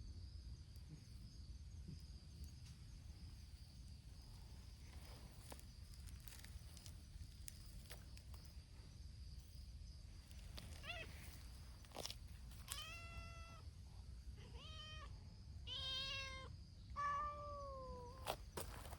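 Free-roaming cats meowing: after a stretch with only a low rumble, a string of meows starts about halfway through, several of them long and drawn out, one sliding down in pitch near the end.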